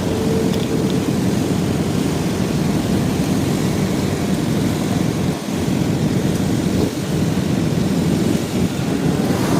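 Steady wind rumble buffeting the microphone on a moving motorcycle, mixed with the ride's road noise.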